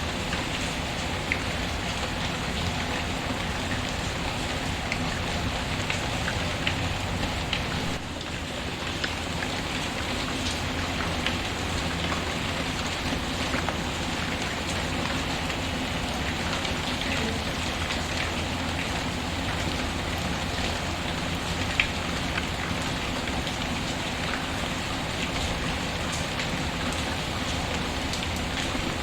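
Steady rain falling on a surface, with scattered small sharp ticks and pops through it and one louder pop past the middle. The level briefly dips about a third of the way in.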